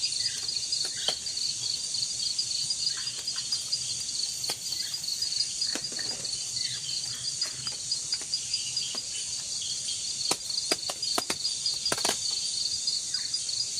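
Steady chorus of night insects: a fast, pulsing high trill with a higher hiss above it. A few sharp clicks break in, several of them close together near the end.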